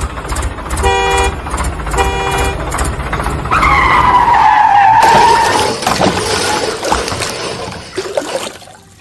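Cartoon vehicle sound effects: an engine rumble with two short horn honks about a second apart, then a loud falling screech-like whistle that trails off into mixed noise and fades near the end.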